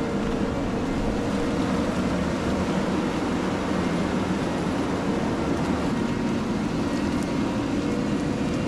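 Bergmann C912s tracked dump truck's diesel engine running steadily under load as the truck drives through deep mud, with a faint steady whine over it for about the first half.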